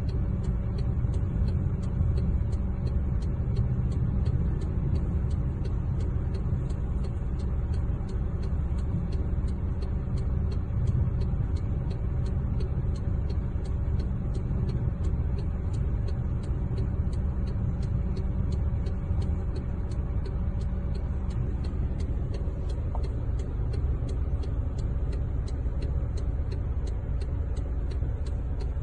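Steady low rumble of a road vehicle running, heard with a regular faint ticking about twice a second.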